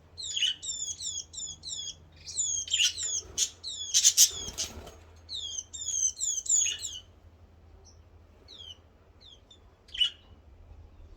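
Small birds chirping: quick runs of short, high, falling chirps, busiest for the first seven seconds and then only scattered calls. A couple of brief rustling knocks come in about three to five seconds in.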